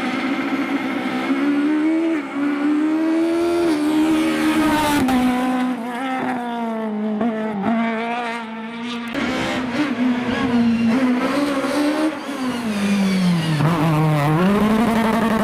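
Peugeot 306 Maxi rally car's high-revving 2.0-litre four-cylinder engine at full race pace. Its note climbs and drops again and again as the driver accelerates, changes gear and brakes, falling low near the end before climbing once more.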